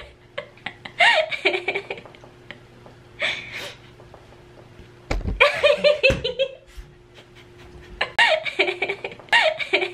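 People laughing in several bursts, with a faint steady hum underneath.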